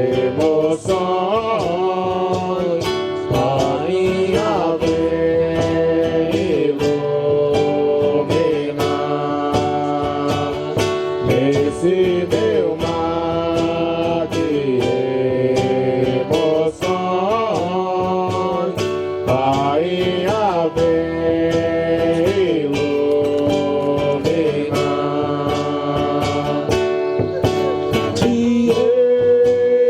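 A song: singing in long held notes that slide between pitches, over a steadily strummed acoustic guitar.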